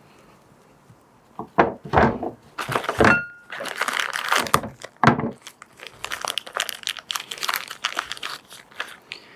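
Fork parts being handled during a motorcycle fork rebuild: a few sharp knocks about a second and a half in, then several seconds of crinkling and rustling that dies away near the end.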